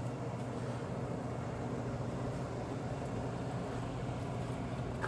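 Steady hum of electric pumps running while a diesel engine is primed before its first start, with a constant low tone under an even whir.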